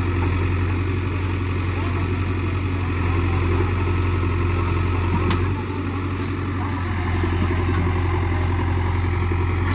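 Heavy diesel engine running steadily with a deep, even hum. Its level eases a little just past halfway, then picks back up, and there is one faint click about five seconds in.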